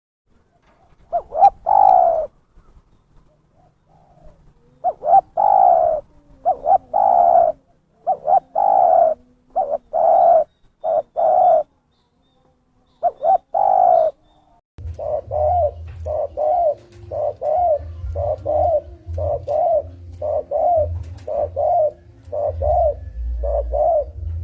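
Spotted dove cooing: phrases of falling coo notes in groups with short pauses, then about halfway through a quicker, even run of short coos at roughly one and a half a second, over a low rumble.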